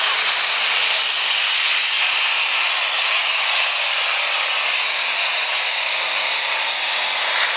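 Super stock pulling tractor running at full power down the track, a loud, steady, noisy roar with no clear pitch.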